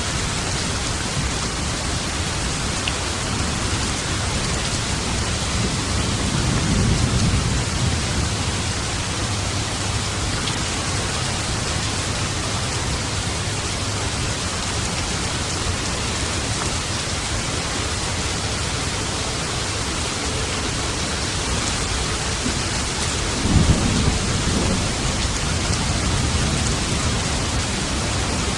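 Steady heavy rain with thunder: a rolling rumble about a quarter of the way in and a sharper, louder thunderclap rumbling on a few seconds before the end.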